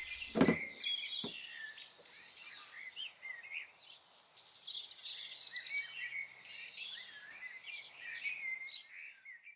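Birdsong: a busy run of short chirps and whistles from several small birds. A single knock sounds about half a second in.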